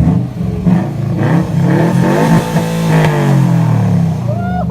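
Subaru WRX hatchback's turbocharged flat-four revved with its catalytic converter removed, running on a straight-piped exhaust. The engine pitch climbs for about three seconds, then falls back.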